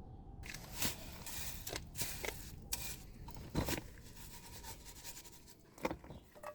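Irregular scraping and rustling with scattered sharp knocks and clicks, the loudest about three and a half seconds in.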